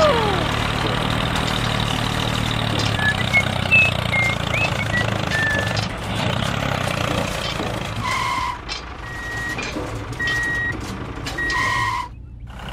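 Vehicle engine running steadily, with a reversing alarm beeping about four times in the second half.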